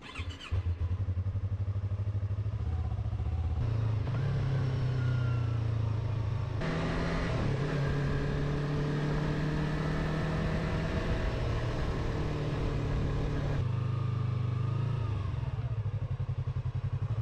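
Motorcycle engine running steadily while riding, in several clips joined with abrupt cuts, the engine note shifting a little at each cut.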